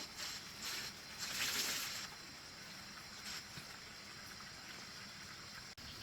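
Wet cloth wiping bamboo: a sharp click, then a few brief swishes in the first two seconds and one more a little later. A steady drone of insects runs underneath.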